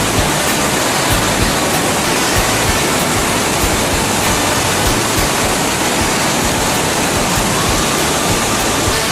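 Waterfall running with a steady, loud rushing roar, with music faintly underneath.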